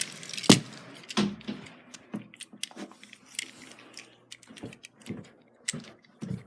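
Toy train clattering down stairs, with a loud knock about half a second in, another a little after a second, then a run of lighter clicks and taps.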